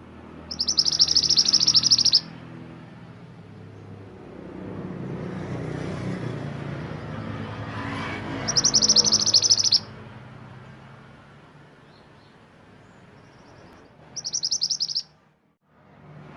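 A mantenan gunung songbird singing three loud, rapid high-pitched trills, each lasting about a second or a bit more, with the last one shorter. A low rumbling background haze runs between the trills.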